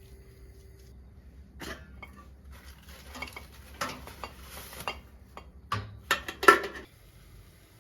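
Dishes and cutlery clattering and clinking: a string of irregular knocks and clinks over several seconds, the loudest clatter a little before the end.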